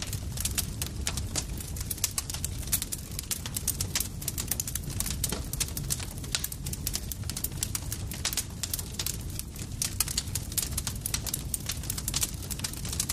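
Wood campfire crackling: dense, irregular sharp pops and snaps over a steady low rumble of the burning fire.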